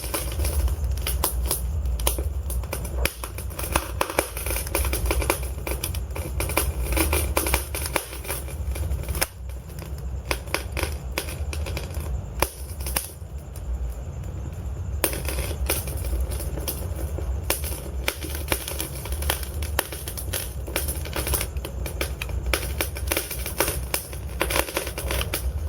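Burning logs crackling in a fireplace: dense, irregular sharp crackles over a steady low rumble. The crackles thin out for a few seconds in the middle.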